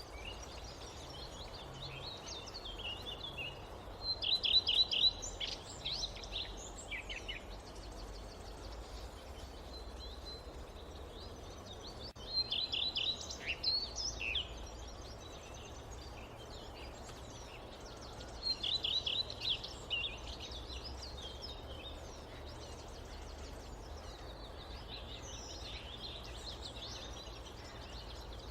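Forest ambience: a songbird sings a short phrase of rapid high chirps three times, about seven seconds apart, with fainter bird calls in between, over a steady background hiss.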